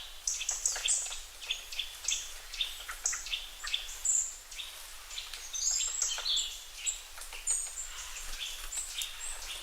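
Outdoor ambience of many birds chirping and calling, with short, overlapping chirps coming several times a second.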